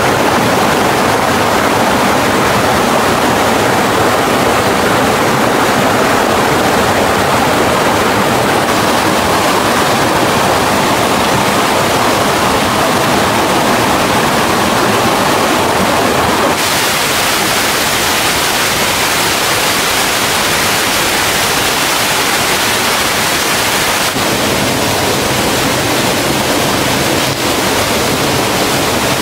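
Loud, steady rush of water pouring down a mountain stream waterfall. About halfway through it turns brighter and hissier.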